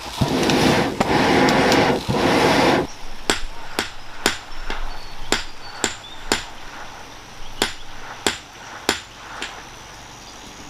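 Hammer blows on iron, about a dozen sharp strikes roughly two a second, some leaving a brief high metallic ring. This fits forging smelted iron into a tool. The first three seconds hold a loud rushing noise.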